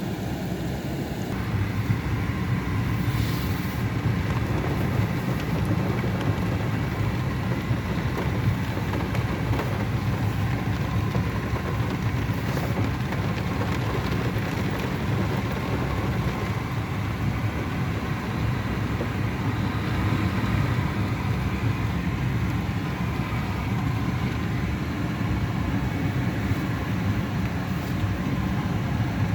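Steady noise inside the cabin of a 2008 Hyundai Elantra: the engine running, with the hiss of heavy rain on the car.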